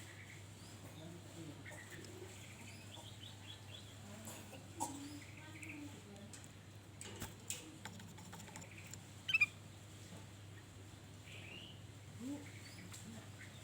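Kutilang emas bulbul calling: scattered short chirps and warbled notes, with one louder sharp call about nine seconds in, over a steady low hum.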